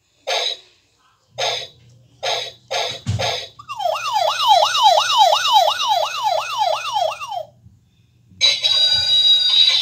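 A toy sound-effects phone playing its built-in electronic effects as its buttons are pressed: a few short blips, then a siren effect wailing up and down about three times a second for nearly four seconds, then another harsher buzzing effect starting near the end.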